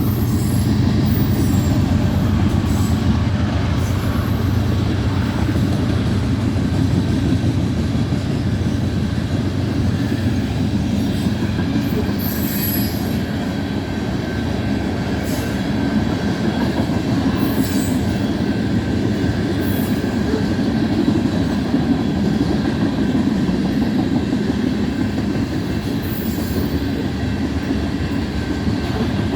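BNSF unit grain train's covered hopper cars rolling past, a steady rumble of steel wheels on rail. Brief high wheel squeals come through now and then.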